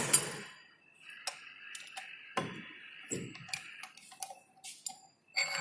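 Metal clicks and light scraping as the finished workpiece is loosened and taken out of a lathe chuck, ending in a bright ringing metallic clink near the end.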